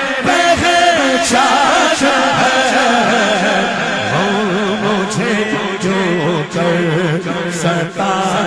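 Devotional Urdu singing: a solo male voice holding and bending long melismatic notes with heavy vibrato between lines of the naat, over accompaniment, with a few sharp percussive strikes.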